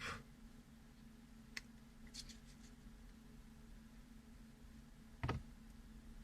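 A few faint clicks and taps of small metal knife parts and tools being handled on the bench, with one duller knock about five seconds in, over a steady low hum.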